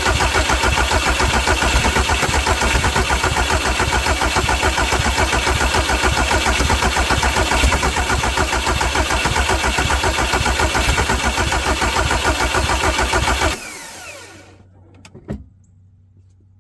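Starter cranking the VW Jetta TDI's diesel engine in an even rhythm for about fourteen seconds without it catching, then winding down. Air in the freshly drained fuel system keeps the diesel from firing. A single sharp knock follows about a second later.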